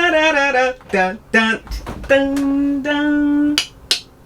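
A woman's voice vocalizing a few wordless, drawn-out sing-song notes, the longest held for about a second and a half in the middle.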